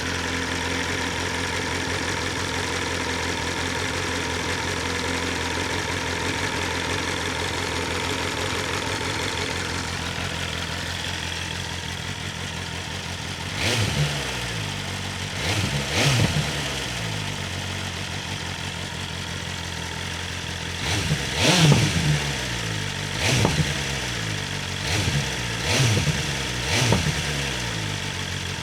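BMW S1000RR's inline-four engine breathing through its stock Akrapovic exhaust, idling steadily at first. From about halfway in, the throttle is blipped in a string of short revs that rise and fall, with sharp exhaust pops and cracks on the blips.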